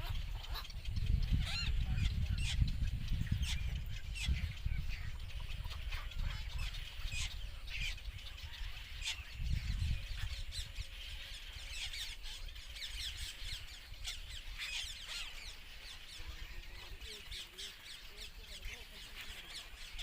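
Herons calling: a busy run of short, high calls repeated many times a second. A low rumble underlies the first half, then fades about ten seconds in.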